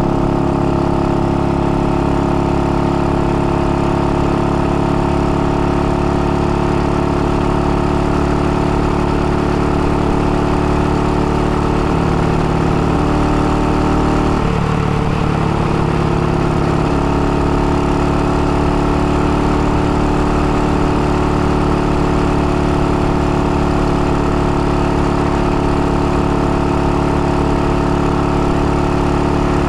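IZh-49's single-cylinder two-stroke engine running steadily while the motorcycle is ridden. The engine is freshly rebuilt, rebored to a 75 mm piston and still being run in. Its note shifts briefly about twelve seconds in and settles back to the same steady pitch about five seconds later.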